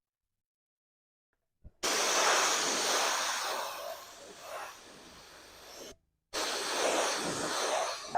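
Pressurised air hissing in a long blast that starts suddenly and fades over a few seconds, then starts again after a short break.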